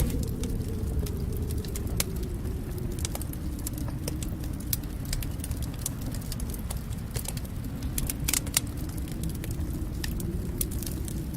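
Wood fire burning in a fireplace: a steady low rumble of flames with scattered sharp crackles and pops, a brief cluster of louder pops a little past two-thirds of the way through.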